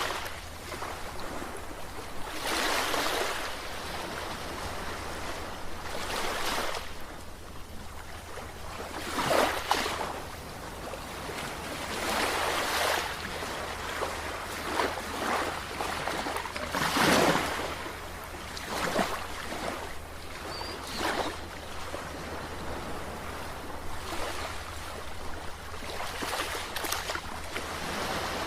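Sea waves breaking and washing, in irregular surges every few seconds over a continuous hiss of moving water.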